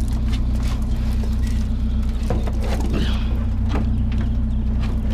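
A vehicle engine idling steadily, with scattered light knocks and rattles over it.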